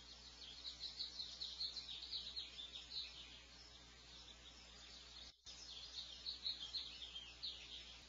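Small birds chirping in quick, high, overlapping notes, in two spells, over a faint steady low hum.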